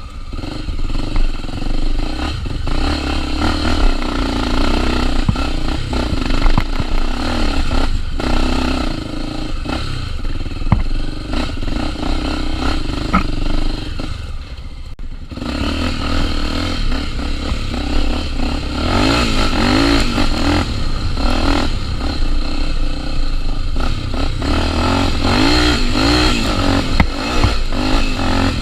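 Honda Tornado 250's single-cylinder four-stroke engine running under changing throttle, with clattering knocks from the bike. The engine drops back briefly about halfway through, then revs up and down in repeated sweeps in the second half.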